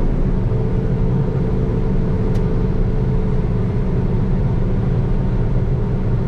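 Combine harvester running steadily with a constant low engine hum and a faint steady whine above it.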